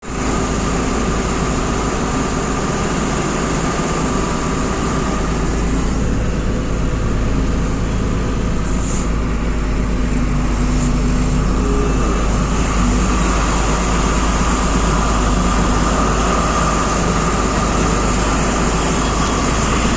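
Truck engine running with road and traffic noise, a steady drone.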